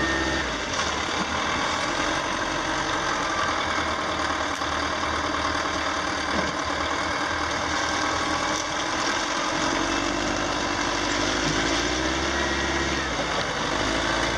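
Wheel loader's diesel engine running steadily, with a whine that wavers up and down in pitch near the end.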